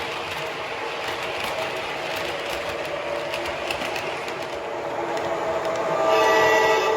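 Train running, a steady rumble with wheel clatter. About six seconds in, a louder sound of several steady tones held together joins it.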